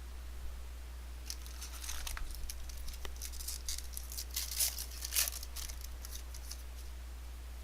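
A foil trading-card pack wrapper being torn open and crinkled for a few seconds, with sharp rips about halfway through, over a low steady hum.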